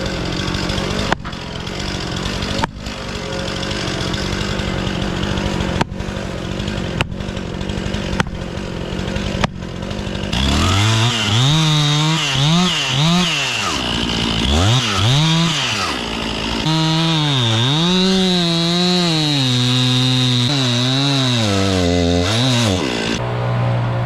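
Large chainsaw cutting into a fir trunk during felling. It runs steadily at first, then from about ten seconds in its pitch swings up and down repeatedly as the throttle is worked in the cut, and near the end it settles to a steady lower running.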